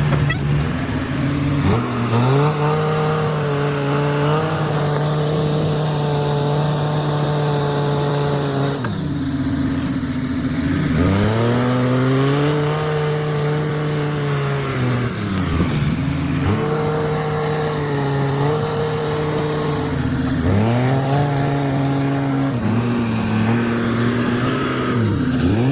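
Timberjack log skidder's diesel engine working hard, held at high revs and then dropping and climbing back several times, about every five seconds.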